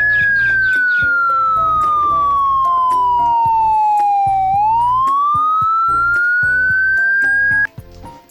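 Police siren wailing in one slow sweep: a single pure tone falls steadily for about four and a half seconds, rises back up, then cuts off suddenly near the end. Light background music plays under it.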